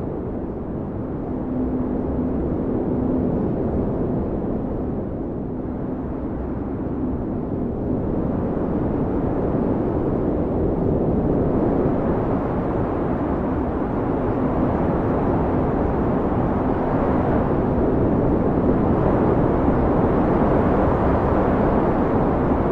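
Blizzard wind blowing hard, a steady rushing noise that eases for a few seconds and then builds again in gusts.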